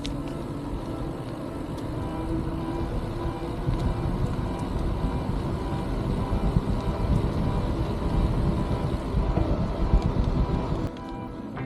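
Wind buffeting and riding noise on a bicycle-mounted action camera's microphone while cycling: a low, gusty rumble that gets stronger from about four seconds in and drops off suddenly near the end.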